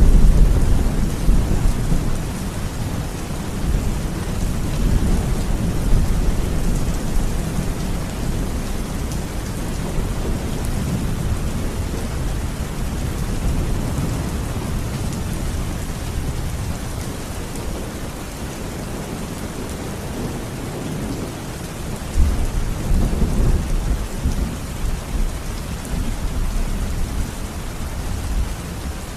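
Steady rain falling, with low rolling thunder. One rumble fades over the first few seconds, and another swells up about three-quarters of the way in.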